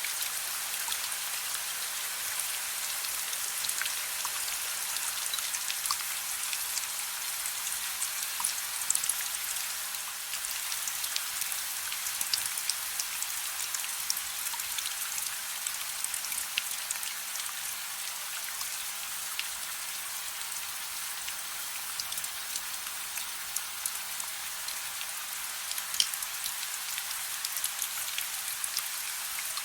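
Steady soft rain: an even hiss of rainfall with many small drop ticks scattered through it, and one sharper tick about 26 seconds in.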